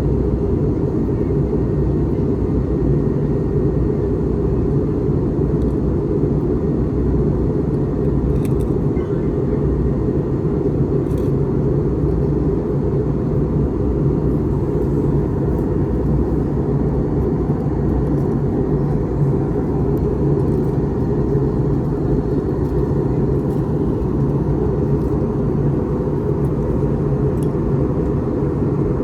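Airbus A321neo cabin noise: a steady low rumble of the engines and airflow heard from inside the cabin.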